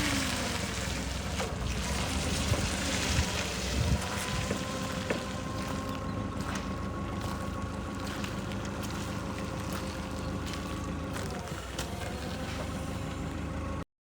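Mitsubishi FG25T forklift engine running steadily, with wind noise on the microphone. The sound cuts off abruptly near the end.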